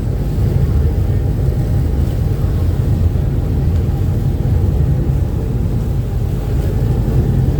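Uber Boat riverbus under way at speed: a steady low rumble of its engines and the rush of water and wind.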